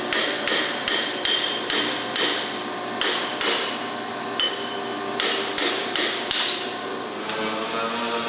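A hammer striking metal about a dozen times at a steady pace of two or three blows a second, with some blows ringing; there is a pause of about a second and a half midway before the blows resume.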